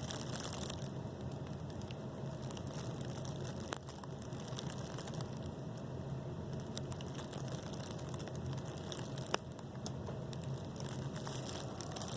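Faint rustling and handling crackle over a steady low hum, with two sharp clicks, one about four seconds in and one about nine seconds in.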